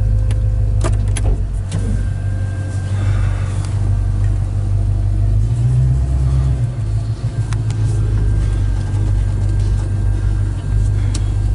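Chevrolet crate engine with Flowmaster mufflers running as the El Camino is driven, a steady low drone heard from inside the cab, swelling briefly about six seconds in as it pulls. A few light clicks in the first second or so, as the B&M shifter is worked.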